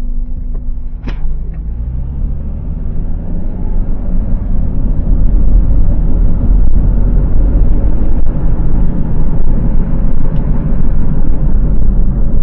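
Worn front wheel bearing on a 2002 Honda CR-V droning and rumbling loudly under way, heard from inside the cabin. The noise grows louder from about four seconds in as the car picks up speed. There is a single click about a second in. The owner concludes the car needs a front wheel bearing.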